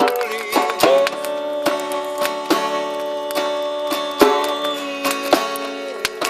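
Live acoustic guitar strummed in a steady rhythm, with frequent sharp djembe hits.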